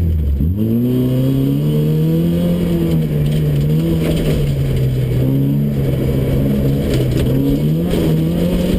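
Ford Fiesta XR2 rally car's four-cylinder engine heard from inside the cabin, pulling hard under full throttle. The engine note drops low and then sweeps sharply upward about half a second in. It then holds at high revs, rising and falling with the throttle, and climbs again near the end.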